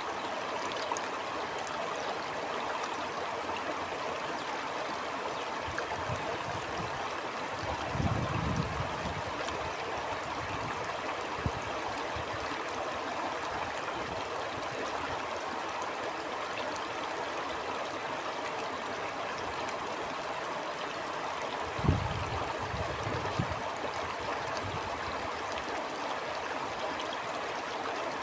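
Stream flowing with a steady, even rush of water. Two brief low gusts of wind buffet the microphone, about eight seconds in and again about three quarters of the way through.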